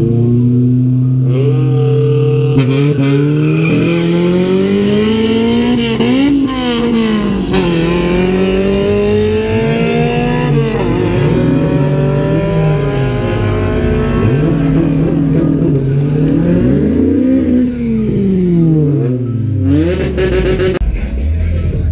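Honda Civic sedan's engine held at high revs on the drag-strip start line, then launching: its note climbs steadily, drops sharply at gear shifts about six and ten seconds in, and climbs again. In the second half, engine notes rise and fall as cars pass.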